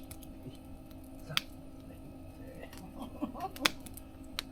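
Wood fire crackling, with two sharp pops about a second and a half in and again near the end, and smaller ticks between.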